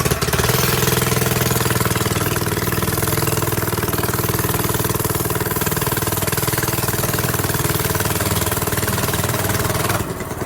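Minibike engine running hard under throttle at a fairly steady pitch, its carburetor freshly adjusted at the idle and mixture screws; the sound drops off sharply near the end.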